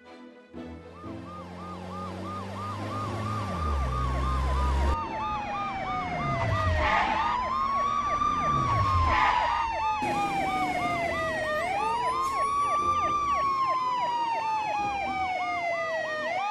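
Two emergency-vehicle sirens sounding together: one a fast warble, the other a slow wail that rises quickly and falls slowly every few seconds. A low engine rumble builds under them in the first few seconds, and vehicles whoosh past twice midway.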